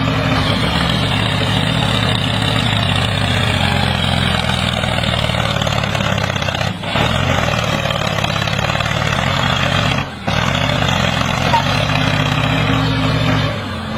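A vehicle engine running steadily, briefly dropping out twice partway through.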